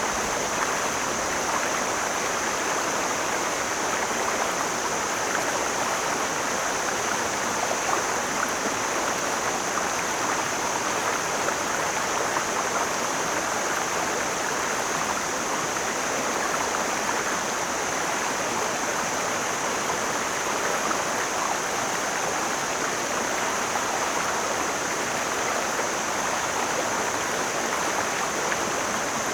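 Mountain stream flowing, a steady, even rush of water with no breaks or sudden sounds.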